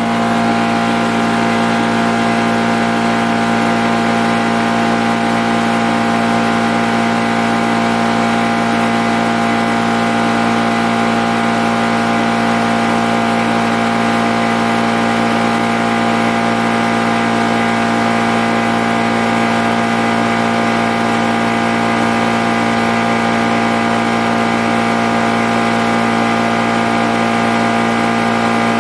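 High-pressure PCP air compressor running steadily, an even motor sound with a strong low tone.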